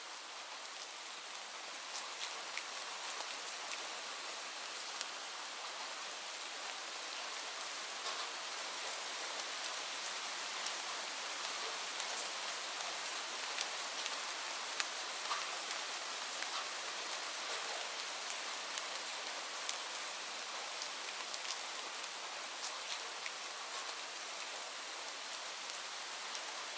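Steady rain falling on leaves, an even hiss with many separate drops ticking sharply on the foliage.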